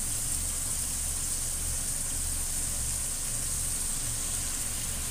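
Onion-and-yogurt masala sizzling steadily as it fries in a nonstick wok, a constant hiss over a low hum, while the yogurt's water cooks off.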